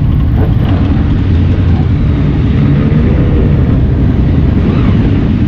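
Motorcycle running at speed, a steady low engine drone mixed with heavy wind rush on the camera's microphone.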